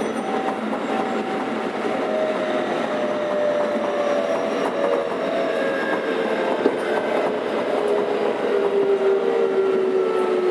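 Running sound of a Keikyu 600 series train from inside a motor car: rail and running noise with the whine of its Toyo Denki VVVF inverter and traction motors. Several tones glide slowly down in pitch as the train slows.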